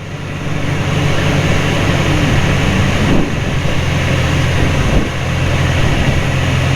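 Carbon Cub's piston engine and propeller running steadily in flight, getting louder over the first second as a little power is added on approach, with rushing wind noise over it.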